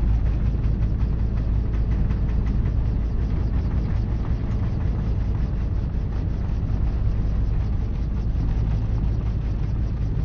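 Helicopter running steadily in flight: a constant low engine and rotor drone with a fast, even rotor beat.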